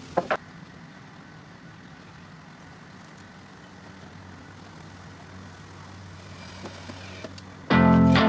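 A steady low background rumble with a brief chirp just after the start; near the end, guitar music comes in loudly.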